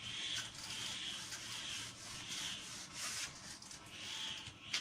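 Pen scratching across paper in a series of short, even strokes, as in writing or drawing.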